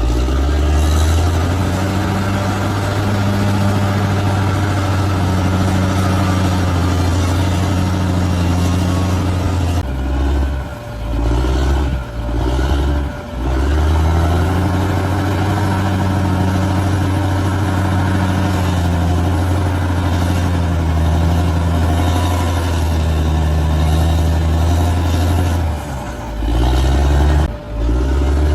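Large bulldozer's diesel engine running steadily under load. Its note dips briefly and comes back several times, around ten to thirteen seconds in and again near the end.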